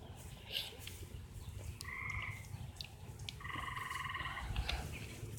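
A tree frog calling from the trees: two short, rapidly pulsed trills, the second longer, about two and three and a half seconds in. Low wind rumble on the microphone underneath.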